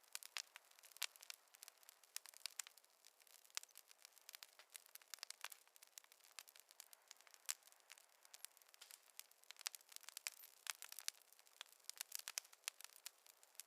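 Wood fire crackling faintly, with irregular sharp pops and snaps several times a second over a thin hiss and no low rumble.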